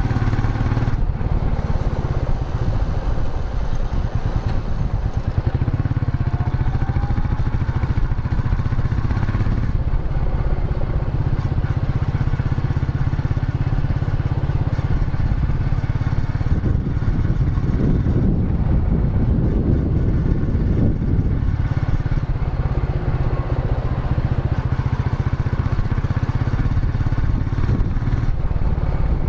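Royal Enfield Meteor 350's single-cylinder engine and exhaust running steadily under way, with a low exhaust note and a louder stretch a little past the middle.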